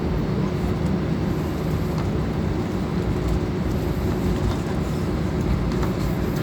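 Steady low engine rumble with a constant hum running through it.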